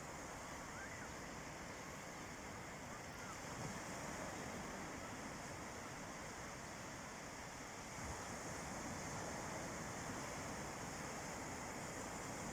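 Sea waves washing on the shore: a steady rush of surf that swells slightly about four seconds in and again about eight seconds in.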